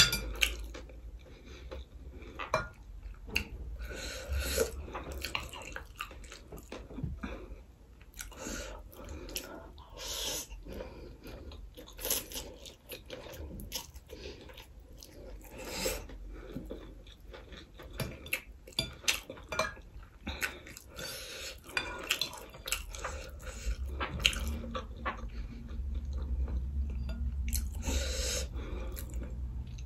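Close-up eating of tofu chow mein noodles: wet chewing and mouth sounds, with occasional clicks of a metal fork against a ceramic plate.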